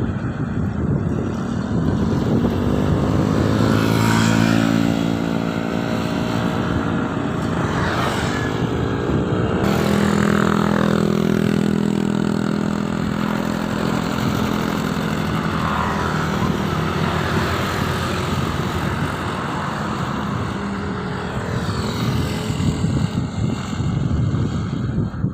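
Motor vehicle engines running over steady road noise, the engine pitch rising twice as it speeds up and then holding steady.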